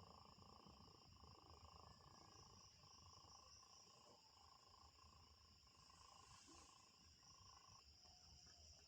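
Faint cat purring, under the steady high-pitched chirring of night insects and a lower, pulsing trill that stops near the end.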